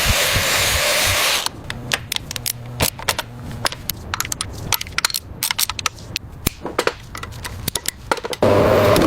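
Workshop work sounds: a steady hiss like an air or spray tool, which stops about a second and a half in, giving way to a long run of irregular sharp clicks and taps over a low hum. The hiss starts again near the end.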